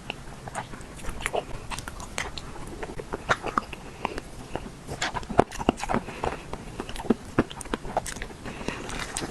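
Close-miked chewing of soft dessert: a dense, irregular run of short mouth clicks and smacks.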